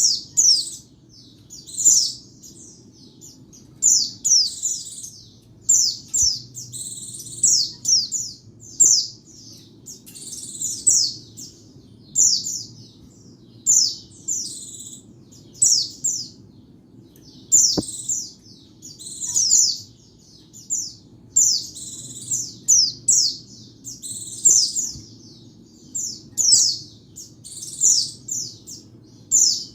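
White-eye (pleci) singing: short, high, rapid twittering phrases of quick falling notes, repeated every second or two.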